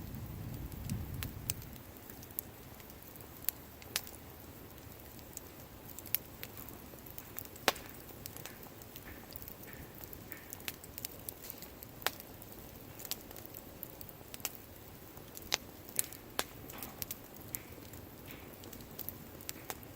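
Wood bonfire crackling: irregular sharp pops and snaps over a faint hiss, with a low rumble in the first second or two.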